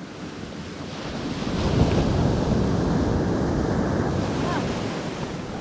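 Rushing wind and sea-water noise, heavy in the lows, swelling about a second in and easing off near the end.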